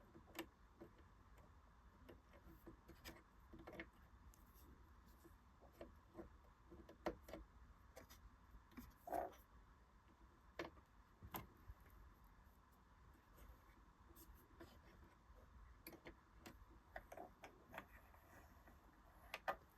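Near silence with faint, irregular small clicks and taps of hands working the sewing machine while threading it.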